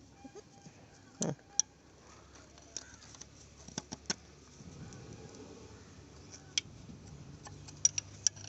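Irregular metallic clicks and clinks, about eight in all, as a wrench works the bolt of a homemade welded metal band clamp being tightened around a car's oil filter.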